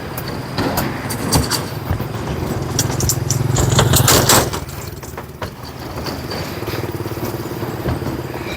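A motorbike crossing a wooden-board bridge: its engine grows louder to a peak about four seconds in and then fades, with a run of sharp clacks and knocks as it passes.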